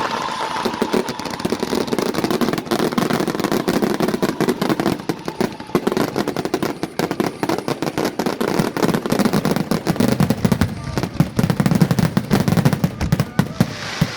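Fireworks finale barrage: a dense, rapid run of overlapping bangs and crackles, growing heavier in its last few seconds.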